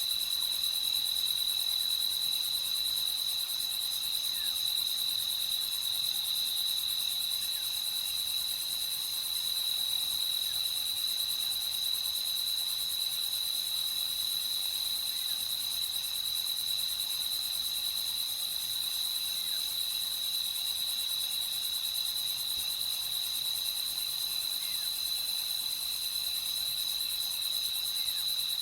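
Crickets chirring steadily in a nighttime chorus, one high unbroken trill over a wider insect hiss.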